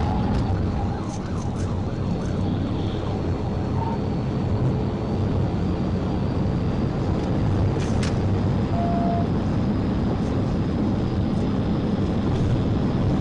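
Police patrol car driving at high speed, a steady rush of engine, tyre and wind noise from inside the car, with a few brief sharp clicks.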